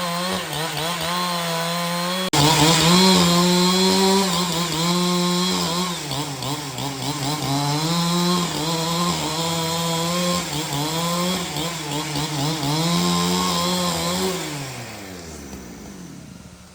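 A two-stroke chainsaw cutting through wood under load, its engine pitch dipping and recovering as it works. Near the end the engine is let off and winds down, its pitch falling away.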